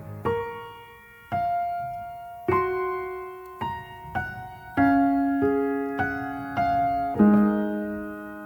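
Slow, gentle piano music: single notes and soft chords struck one after another, each ringing and fading before the next.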